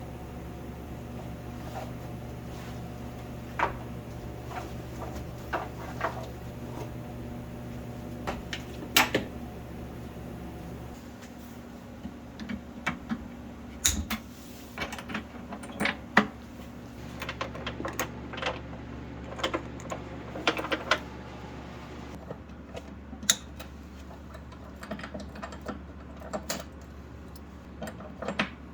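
Irregular light clicks and knocks of things being handled and set down during cleaning and disassembly, over a steady low hum that drops away and comes back partway through.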